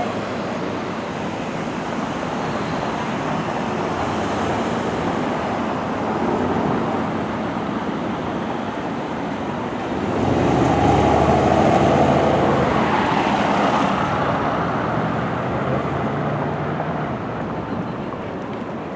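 Street traffic noise, with a motor vehicle passing close and louder about halfway through, its rumble swelling and then fading over a few seconds.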